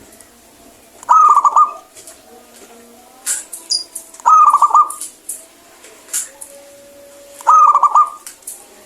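Zebra dove (perkutut) singing its gacor song: three short phrases of quick rolling coos, each about half a second long and about three seconds apart.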